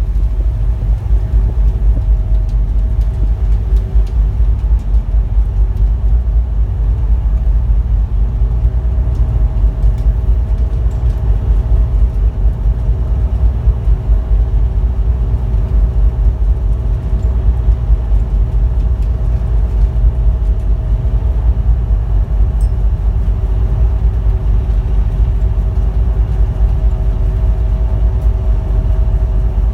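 Strong wind buffeting the microphone in a loud, uneven low rumble, over the steady hum of a ferry's engines.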